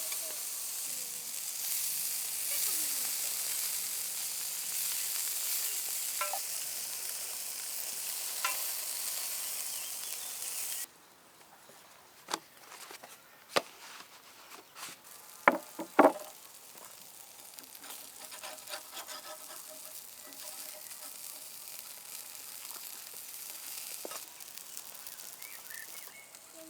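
Food frying in a hot pan with a steady sizzle that cuts off suddenly about eleven seconds in. A few sharp knocks and clatters follow over quieter background sound.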